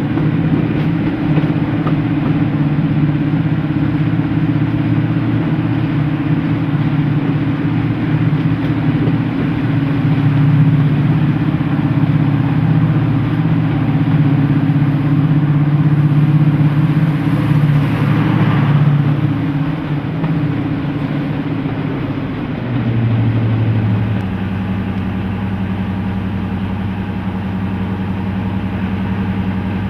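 Deltic diesel locomotive's twin Napier Deltic two-stroke engines running under power with a steady, loud multi-toned note. About three quarters of the way through, the note drops and settles to a lower, quieter steady hum as power comes off.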